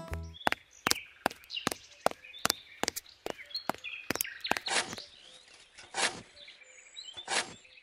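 Small metal hoe scraping and tapping through coarse, gritty soil in quick strokes, about two or three sharp clicks a second, with a few longer scrapes in the second half. Birds chirp in the background.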